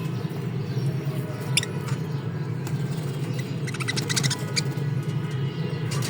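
Small cage birds giving short, high squeaky chirps: one about one and a half seconds in, then a quick run of them in the middle, over steady background music.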